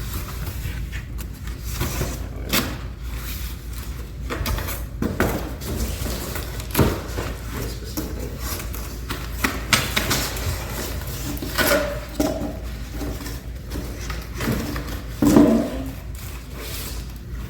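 Cardboard packaging being handled as a box is opened and parts are pulled out: scattered rubs, scrapes and light knocks over a steady low hum. The loudest knock comes near the end.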